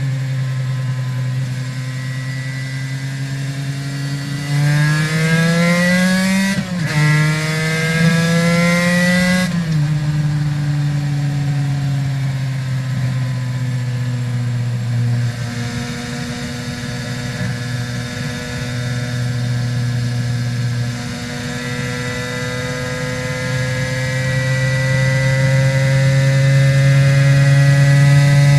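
Aprilia RS 250's two-stroke V-twin with Arrow exhausts, ridden on the road. It runs steadily, then revs up about five seconds in, with a short break in the note near seven seconds for a gear change. It revs higher again, backs off near ten seconds, and builds revs slowly toward the end.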